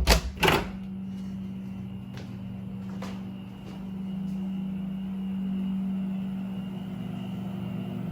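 Rheem Performance Platinum heat pump water heater running: a steady hum of its compressor and fan with a low droning tone, growing slightly louder midway, at a level that is pretty quiet for such a unit. Two knocks about half a second apart come right at the start.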